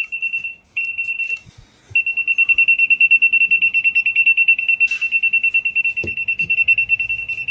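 Wire tracer receiver beeping with one high tone, sounding in two short bursts and then from about two seconds in as a fast pulsing beep of roughly eight beeps a second. It is picking up the traced signal on the lamp's supply wire.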